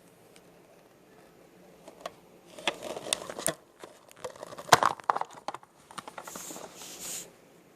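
Handling noises: irregular rustling and crinkling with scattered sharp clicks, starting about two and a half seconds in and stopping near the end, the loudest a single click about five seconds in.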